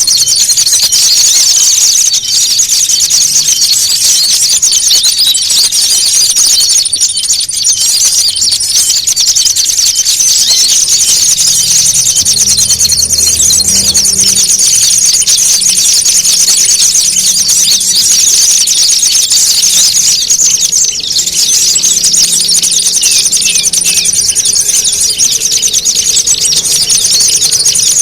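A loud chorus of many small songbirds chattering and trilling in rapid, high-pitched calls without a break. It is a layered bird-lure recording of noisy, fighting-style calls, played to draw small birds in.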